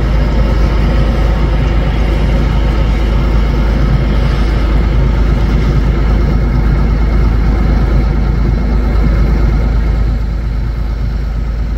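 Diesel engine running steadily at a constant speed. It eases slightly about ten seconds in.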